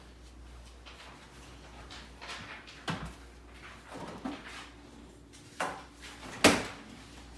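A few separate knocks and clunks of things being handled and set down, the loudest and sharpest about six and a half seconds in.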